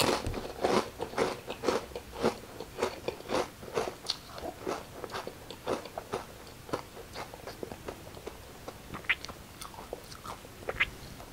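Close-up chewing of a crisp cracker topped with ice cream cake: a run of sharp, crisp crunches, frequent at first, then thinning out to occasional crunches.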